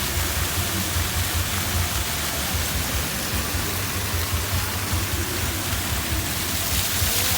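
Waterfall: a steady rush of falling water, an even hiss with a low rumble beneath.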